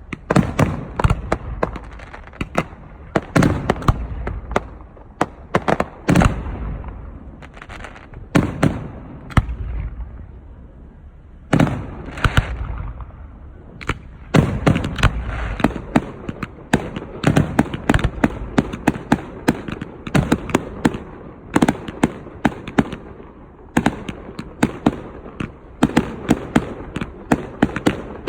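Aerial fireworks going off in quick succession: deep booms of shell bursts mixed with crackling reports, thinning out briefly about ten seconds in, then dense again.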